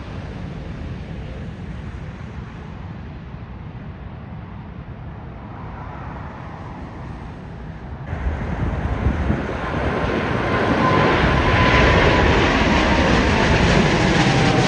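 Jet airliner passing close: a low engine rumble for the first half, then from about eight seconds in the engine noise swells loud, with a whine that falls in pitch as the aircraft goes by.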